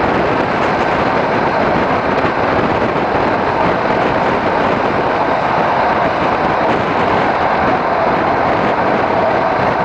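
ALn 668 diesel railcar running steadily along the line, a loud, even rushing noise of the moving train heard from an open window beside the carriage side.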